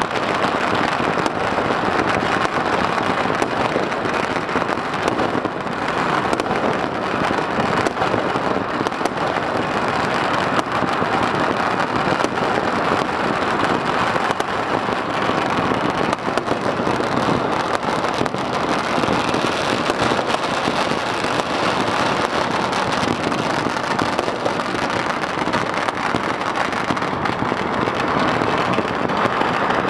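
Fireworks going off in great numbers all at once across a city: a dense, unbroken crackle of countless small bangs that never pauses.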